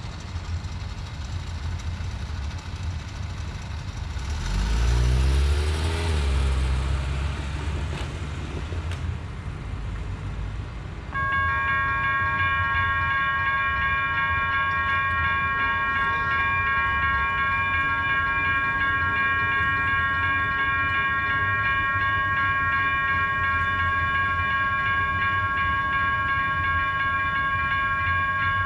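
A road vehicle rumbles past the crossing, then about eleven seconds in the railroad crossing warning bells start ringing and keep ringing steadily, signalling an approaching train.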